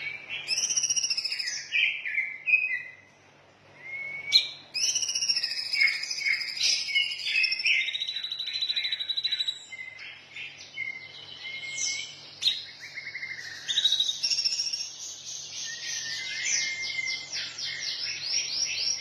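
Songbird singing a long, varied song of clear whistles, chirps and fast trills, with a short pause about three seconds in.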